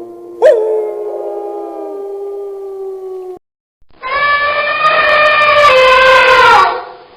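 Two long animal calls: the first starts sharply about half a second in and is held at a steady pitch for about three seconds; after a short gap a second, louder call wavers and then falls in pitch before fading out near the end.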